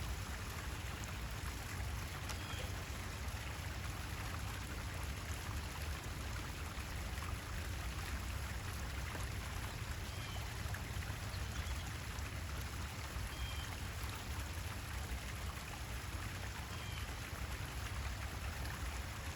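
Steady running, trickling water, with a few faint, short bird chirps scattered through it.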